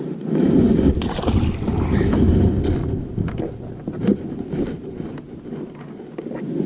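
Wind buffeting the microphone as a rough rumble, strongest in the first few seconds, with a few light knocks scattered through it.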